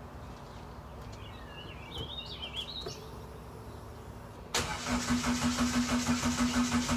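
Car engine being cranked on its starter for a cold start. The cranking begins suddenly about four and a half seconds in as a steady whine with rhythmic pulses about five a second. Before that, a bird chirps faintly.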